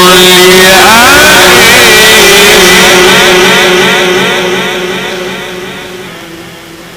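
A Quran reciter's amplified voice holds one long, ornamented note, wavering up and down, through a loud, echoing sound system. It fades away over the last three or four seconds.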